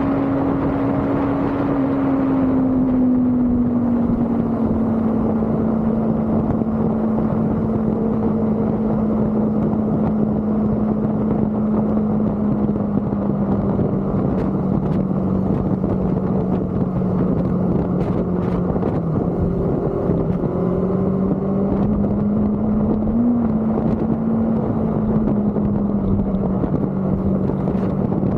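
Motorcycle engine running at a steady cruise under a rush of wind noise. The engine note eases down a little about three seconds in, then holds level, with a brief small rise and dip a little past the middle.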